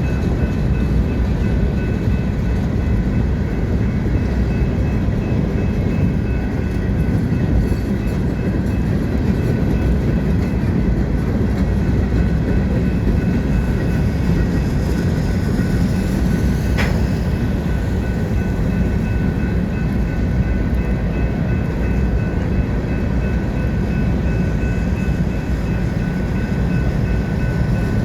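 Manifest freight train's cars rolling past, a steady loud rumble with wheel clickety-clack and faint steady high-pitched tones. A single sharp click about seventeen seconds in.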